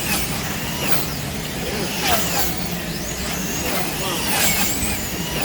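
Electric motors of wing-class slot cars racing round the track, a high whine rising and falling in pitch as the cars speed up and slow through the corners, sweeping past about once a second over a steady low hum.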